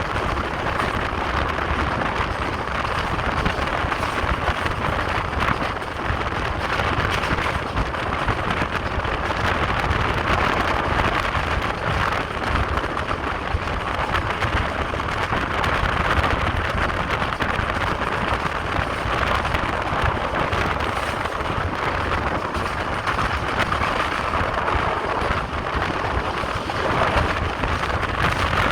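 Passenger train running: a steady, unbroken rumble and rush of the carriage and its wheels on the rails.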